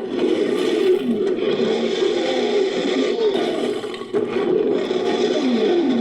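Designed monster sound effect: a continuous growl with wavering pitch, mixed from ape and big-cat roar recordings, with a short dip about four seconds in.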